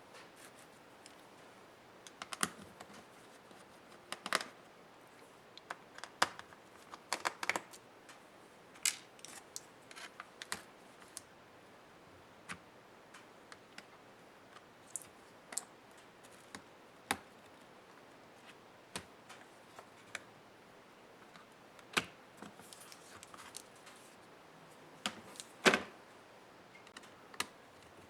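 Irregular clicks and taps of small tools and plastic parts as an HP ProBook 430 G6 laptop is taken apart by hand, with a couple of sharper knocks near the end.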